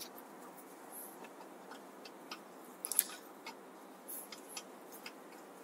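Faint small metal clicks and taps as a crank puller is tried in the threaded crank arm of a bicycle crankset, with a sharper click about three seconds in.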